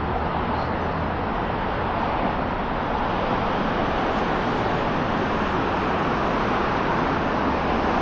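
Steady street traffic noise, a continuous wash of passing cars, slowly getting a little louder.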